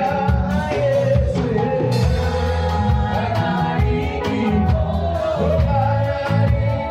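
Live gospel worship music: a band with bass and drums accompanying singing voices.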